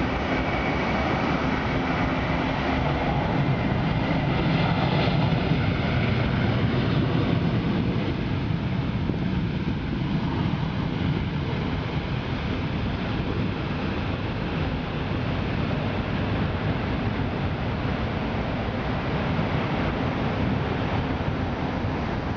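Jet engine noise of a four-engined Airbus A380 airliner on its landing, a steady rushing sound with a low hum and a thin whine. It swells to its loudest about five seconds in and then eases a little.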